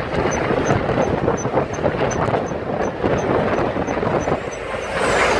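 Steady rushing noise of motorway traffic and vehicles passing.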